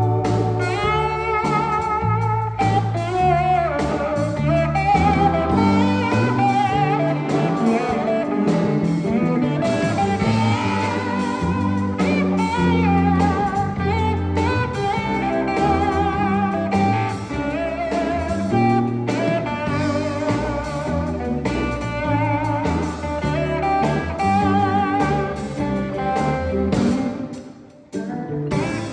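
Live Sacred Steel gospel band playing: a steel guitar carries wavering, sliding lines with vibrato over bass and drums. The music briefly dips out near the end.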